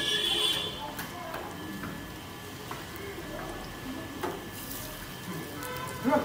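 Potato tikkis sizzling on a large flat griddle (tawa): a steady hiss under a murmur of voices, with a couple of sharp clinks, one about four seconds in and a louder one near the end.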